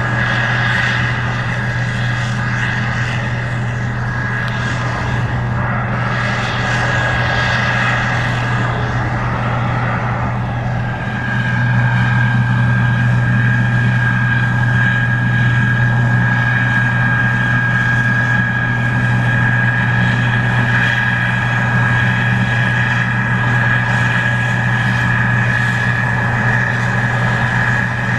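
Case IH 2144 Axial-Flow combine running steadily while harvesting corn: a low engine drone with a steady high whine from the machinery. It gets louder about eleven seconds in.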